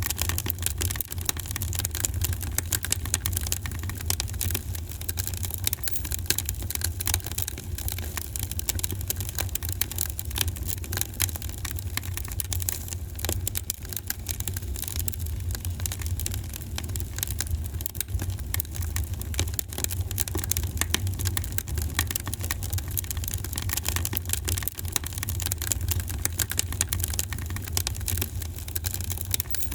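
Wood fire in a fireplace crackling steadily, with a constant rapid patter of small pops and snaps over a low steady rumble.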